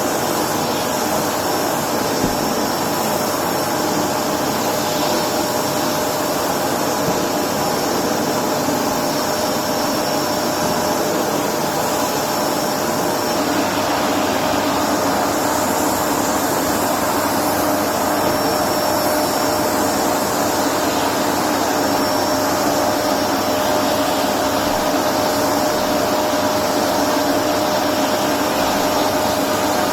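Electrolux Precision bagless upright vacuum cleaner running steadily while vacuuming, its motor noise carrying a constant whine.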